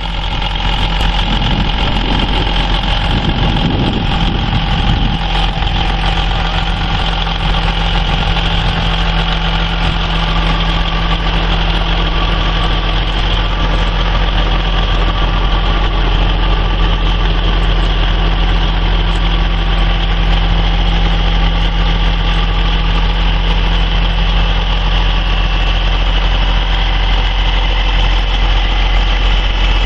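A vehicle engine idling steadily and close, with a brief irregular swell in the first few seconds.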